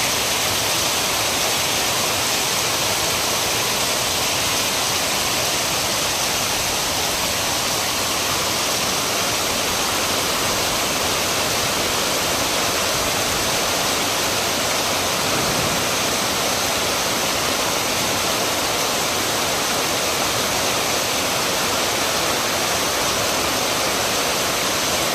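Heavy rain pouring down in a steady, dense downpour with no let-up.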